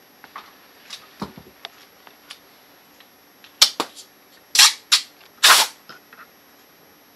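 Handling a scuba regulator first stage and its small metal parts during disassembly: scattered light clicks, then a cluster of five loud, sharp clacks and short bursts about halfway through.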